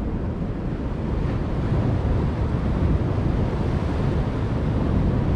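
Steady low rumbling noise of wind and water, with no distinct events, growing slightly louder about a second and a half in.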